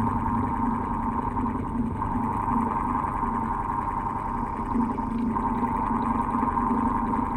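Old electric fan running steadily with a low hum and a higher whirring tone that drops out briefly about every three seconds.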